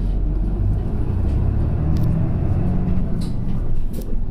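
Diesel engine of a route bus running on the move, heard from inside the cabin: a steady low rumble whose engine note rises a little in the first couple of seconds, with a few short sharp rattles from the body.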